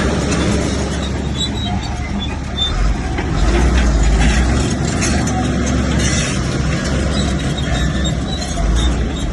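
Komatsu crawler bulldozer working, its diesel engine running steadily with a low rumble that swells about three seconds in.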